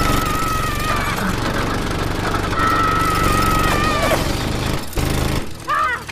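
Car chase sound effects: a hard-running car engine with dense rattling noise and tyres screeching in two long steady squeals, one at the start and a longer one a little after two seconds in.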